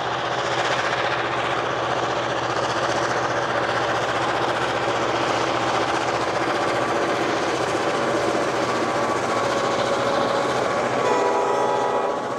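Diesel locomotives GWA 422 class 2207 and Streamliner GM37, both Clyde-built EMD units, running past under power, followed by a long string of loaded rail wagons rolling over the track. A brief pitched tone comes in about eleven seconds in.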